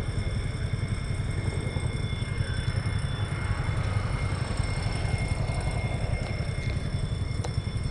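Container freight train running with a steady low rumble, a steady high-pitched whine over it and a faint click near the end.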